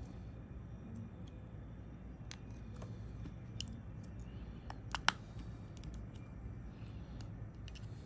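Small, sparse clicks and taps of hand tools and parts on an opened smartphone during repair, with a sharper double click about five seconds in, over a low steady room hum.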